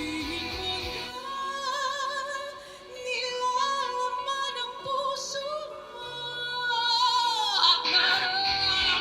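A woman singing a slow ballad in long held notes with vibrato, with band accompaniment that thins out about a second in and builds back up near the end.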